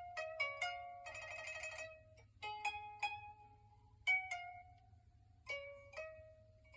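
Koto played: single plucked notes that ring and fade, with a rapid tremolo on one note about a second in.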